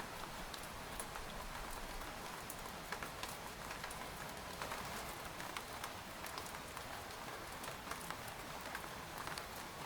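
Steady rain falling on a tent, with many scattered individual drops tapping on the fabric over an even patter.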